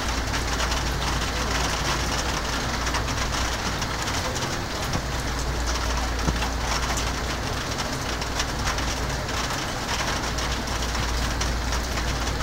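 Steady rain falling in a thunderstorm, a dense patter of many small drop hits with a steady low rumble underneath.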